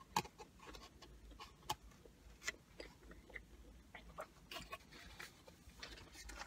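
Faint close-up chewing of a burger: soft, scattered mouth clicks and smacks, several a second.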